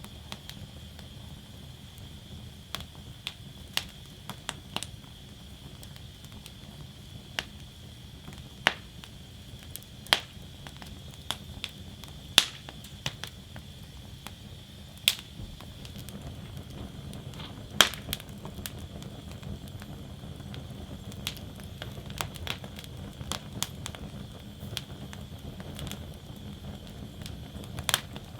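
Wood fire burning in a fire basket: irregular sharp crackles and pops from the burning logs over a low steady rumble of the flames, with a handful of louder pops scattered through.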